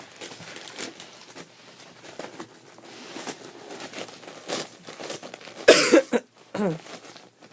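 Dog rustling and tearing gift wrapping paper, with scattered crinkles and clicks. About six seconds in there is a loud, short, cough-like burst of voice, and a smaller one just after.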